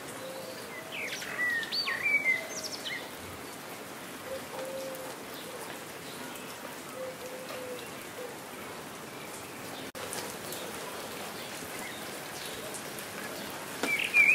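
Steady rain falling, with a small bird's quick chirping calls about a second in and again at the very end. Faint low calls sound now and then.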